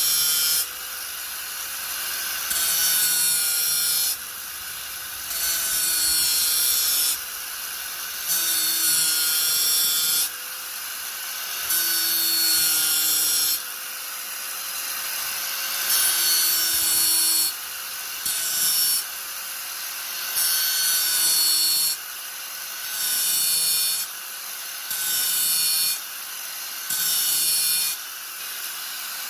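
Angle grinder running continuously with a steady motor whine, its disc pressed into the work again and again: about ten loud, hissing grinding passes of a second or two each, with the motor free-running between them.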